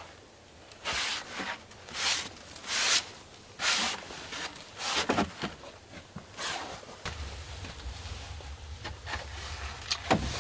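A series of separate rustling, scraping strokes, about one a second, from hand work such as digging or handling branches and earth. A low steady rumble comes in about seven seconds in.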